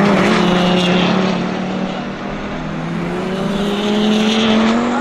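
A sports car's engine running hard past the track edge. Its note holds, then climbs in pitch over the last couple of seconds as the car accelerates.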